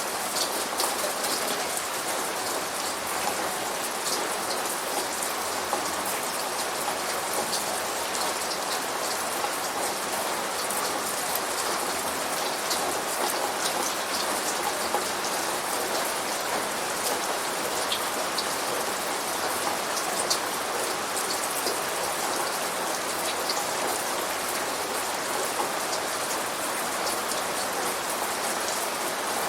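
Steady rain falling, with the close patter of many individual drops striking a surface; no thunder.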